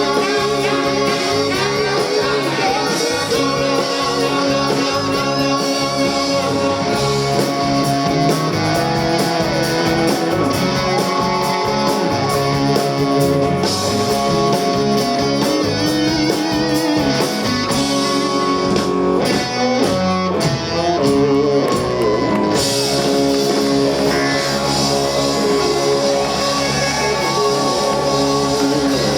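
Live rock band playing an instrumental passage, a guitar lead over drums and bass.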